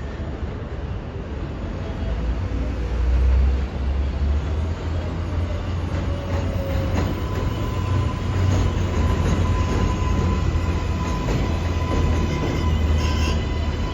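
R188 subway train on the 7 line running through the station with a heavy rumble of wheels on the rails, growing louder about two seconds in. A steady high whine joins about halfway through.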